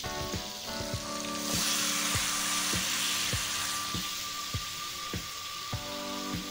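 Hot oil in a wok sizzling, flaring up loudly about a second and a half in as wet, freshly washed mustard greens go in, then settling. Background music with a steady beat plays throughout.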